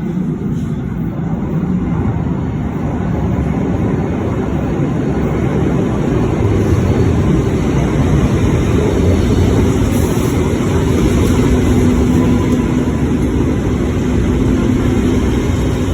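Train moving through the station, a loud steady low rumble, with a faint steady hum coming in about ten seconds in.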